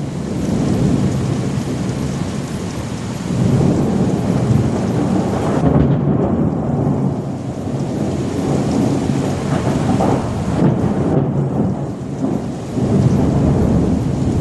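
Rolling thunder rumbling deep and continuously, swelling twice, over steady rain.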